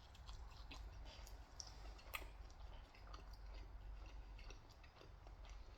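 Faint chewing of pizza, with many small wet mouth clicks and a soft crunch about two seconds in.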